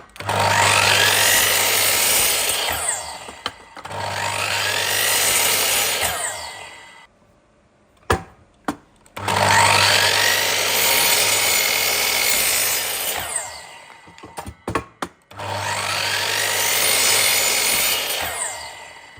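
Electric power saw cutting wood in four runs of three to four seconds each, each run with a steady motor hum and a pitch that sweeps as the blade bites and clears. Short pauses between the runs hold a few sharp knocks of wood being handled.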